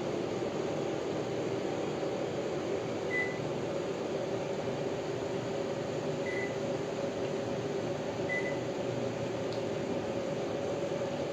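Panasonic CS-PC9MKJ split air conditioner's indoor unit running with a steady fan hum. Three short high beeps sound over it, about 3, 6 and 8 seconds in.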